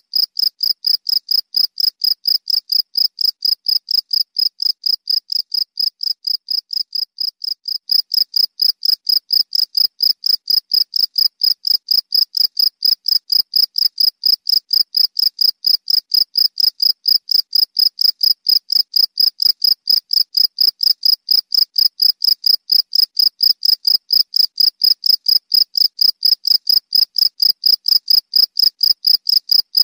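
Cricket chirping steadily, a high, even pulse repeated about four times a second.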